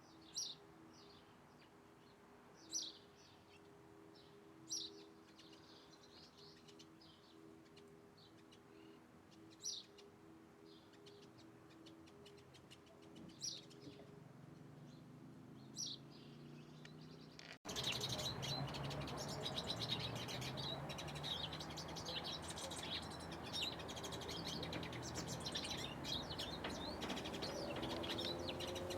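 Wild birds calling: single sharp chirps every few seconds over a faint low hum, then, after an abrupt cut about 18 seconds in, a louder, busier chorus of bird song over a noisy background.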